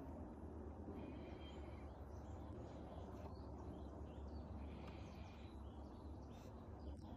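Birds chirping now and then over a faint, steady low hum.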